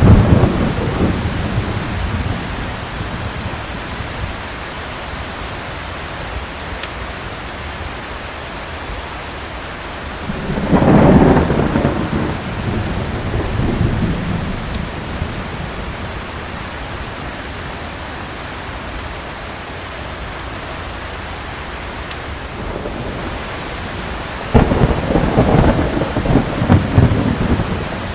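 Steady heavy rain with thunder rolling twice: a rumble swells about ten seconds in and fades over a few seconds, and another comes near the end. The tail of an earlier roll dies away at the start.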